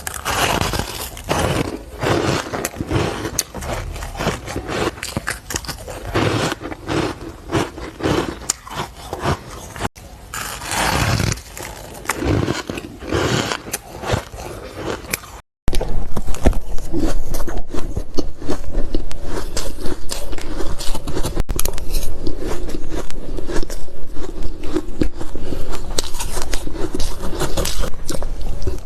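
Close-miked crunching and biting of ice, powdery frost and crisp ice blocks, as a dense run of irregular crunches. About halfway through a sudden cut breaks it, and the crunching after it is louder and denser.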